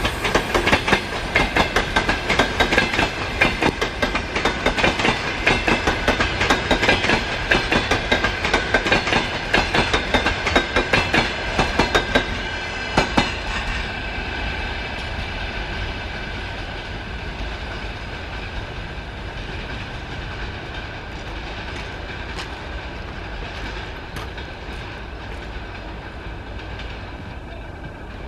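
Train passing on the line, its wheels clattering over the rail joints in a quick run of clacks for the first thirteen seconds or so, then the sound fades gradually as it moves away. A steady high tone runs underneath.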